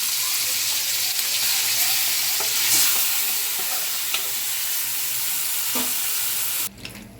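Marinated chicken sizzling in hot oil in a kadai, with a few short scrapes of stirring. The loud, steady frying hiss cuts off suddenly near the end.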